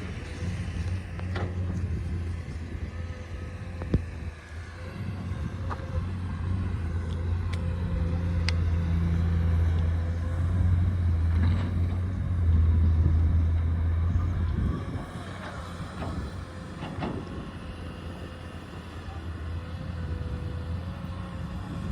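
Diesel engine of heavy earthmoving machinery running steadily with a low hum. It grows louder from about 8 seconds in and eases off after about 15 seconds. There is a single sharp knock about 4 seconds in.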